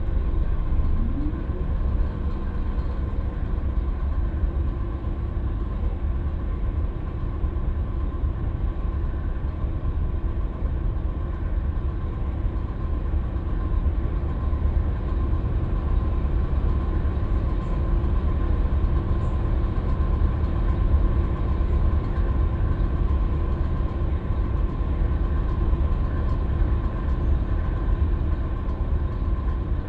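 Scania K320UB city bus's five-cylinder diesel engine and drivetrain running steadily while the bus drives along, a constant low rumble with a steady hum and road noise. Nothing changes in it, so there is no stop or gear change here.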